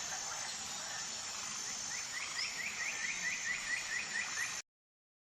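Outdoor nature ambience with a steady high insect drone; from about two seconds in, a bird calls in a rapid series of short rising chirps, about five a second. It all cuts off abruptly near the end into silence.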